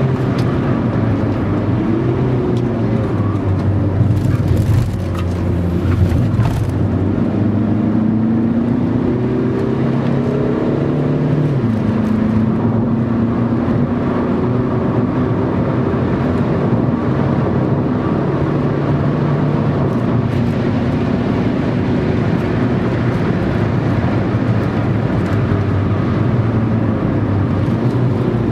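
Car engine under hard driving, heard from inside the cabin: the revs climb and fall with gear changes, one shift about five seconds in, over steady road and wind noise.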